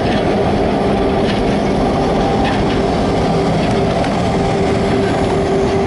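Freight train's diesel locomotives passing close by: engines running with a steady drone over the rumble of steel wheels on the rails.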